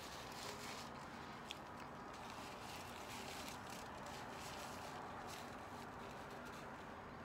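Faint chewing of a mouthful of crispy chicken sandwich, with a few soft mouth clicks over steady room hiss.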